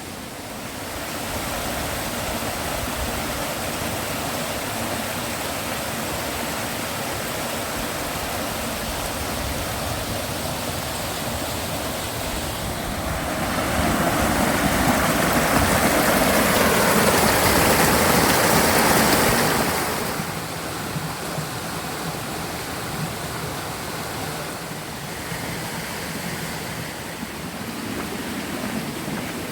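Mountain stream and small waterfall rushing steadily, swelling louder for several seconds around the middle before settling back.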